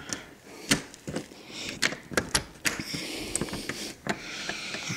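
A door being unlocked and opened: a run of sharp clicks, knocks and rattles from the lock and handle, with a rushing hiss through the second half.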